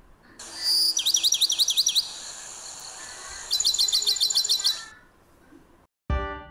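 Bird chirping in two quick runs of rapid, repeated high notes, the first about a second in and the second about three and a half seconds in. Music with a steady beat starts near the end.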